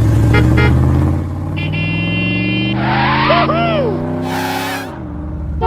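Cartoon vehicle engine sound effect, its pitch rising steadily as it speeds up for about five seconds, then dropping. Layered on it: a held flat tone about two seconds in, short whooshes, and whistle-like glides up and down.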